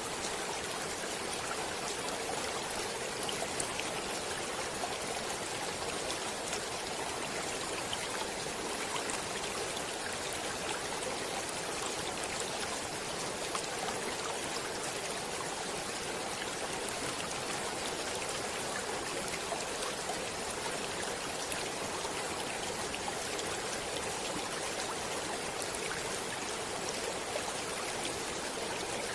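Water in a stream flowing steadily, an even rushing with small splashes and drips through it.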